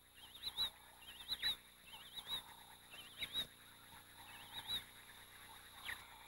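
A bird calling over and over: a short, faint, wavering whistle that rises at its end, repeated about once a second, with a few soft clicks between.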